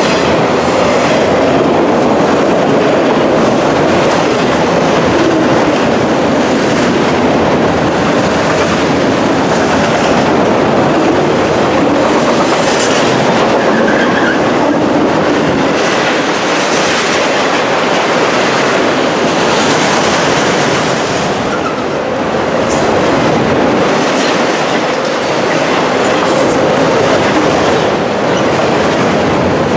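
Freight train of autorack cars rolling past close by: loud, steady rumble of steel wheels on rail with a clickety-clack of wheels over rail joints.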